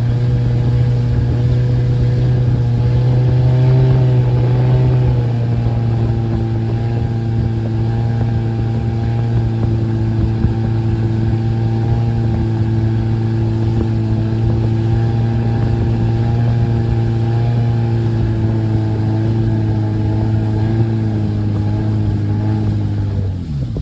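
Motorboat engine running steadily under way. Its note eases down slightly about five seconds in, then near the end the pitch drops and it winds down as the throttle comes off.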